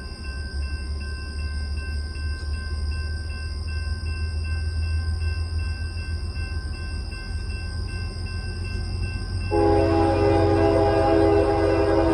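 Train rumbling by with a steady low drone, then a locomotive air horn sounds a long, loud chord starting about three-quarters of the way in.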